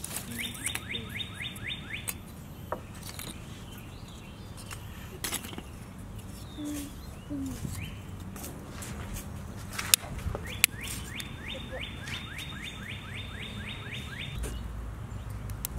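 A songbird singing a fast trill of quickly repeated down-slurred notes, twice, once briefly and then for several seconds. Lumps of charcoal clink and knock with scattered sharp clicks as they are stacked, two of them loud near the middle.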